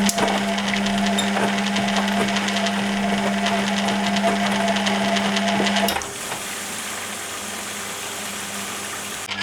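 Hoover Keymatic A3112 twin-tub-era front loader finishing its water fill: a steady hum with water splashing into the drum, which cuts off sharply about six seconds in as the fill ends, leaving a quieter steady noise. A hum starts again at the very end as the machine moves on to heating.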